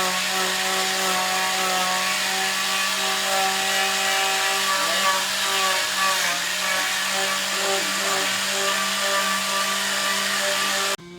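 A power tool running steadily, a high hiss with several whining tones that waver slightly in pitch, cutting off abruptly just before the end.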